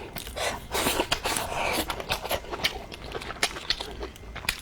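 Close-miked eating sounds: chewing with many small wet mouth clicks and smacks, and the odd breath.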